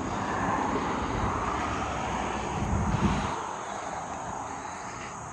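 A passing vehicle's engine noise, a steady rush with a low rumble that drops away about three seconds in, then slowly fades.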